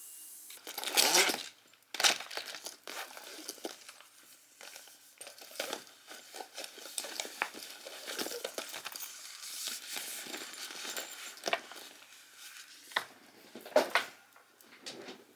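Irregular crinkling and crackling of something being handled up close, with louder bursts about a second in, at about two seconds and near the end.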